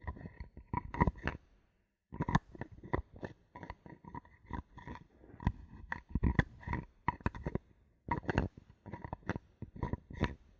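Bottle caps handled close to the microphone: quick runs of clicks, taps and twisting rattles in clusters, with short pauses about two seconds and eight seconds in.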